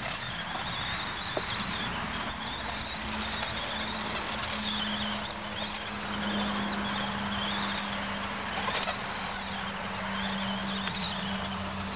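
Small electric RC truck's motor whining, the pitch rising and falling repeatedly as it spins donuts, over a steady hiss.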